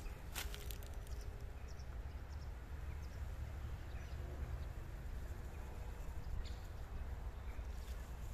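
A single crunch of a footstep in dry leaves shortly after the start and a faint tick later, over a steady low outdoor rumble.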